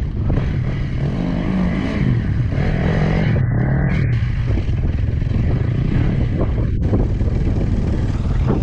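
Two-stroke KTM 250 XC-W dirt bike engine at low revs in slow technical riding. Its pitch rises and falls unevenly with short bursts of throttle.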